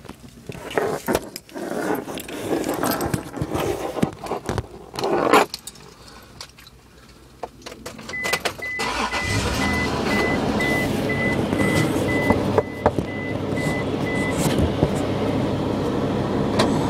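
Keys jangling and handling clicks inside a car, then the car's engine starts about halfway through and runs steadily. A dashboard warning chime beeps rapidly for about six seconds.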